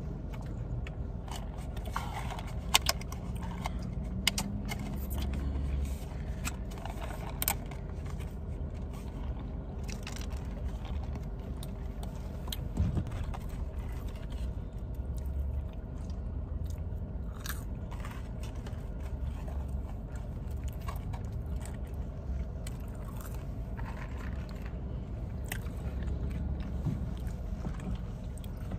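Close-up chewing and crunching while eating McDonald's fries, with many short, sharp crunches scattered over a steady low rumble.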